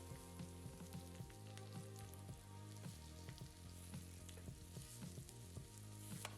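Spice-coated boiled egg halves and crushed garlic frying in oil on a low flame: a gentle, steady sizzle with many small crackles and pops. Soft background music runs underneath.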